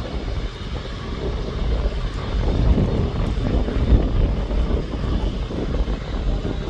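Emirates wide-body jet airliner taking off, its engines at take-off thrust making a loud, deep rumble that swells a little about halfway through.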